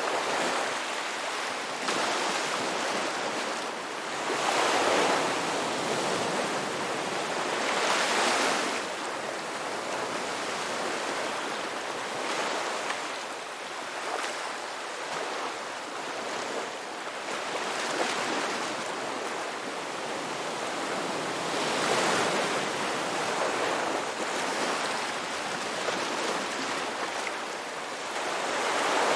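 Ocean surf: waves breaking and washing in, a continuous rush that swells louder in uneven surges every few seconds.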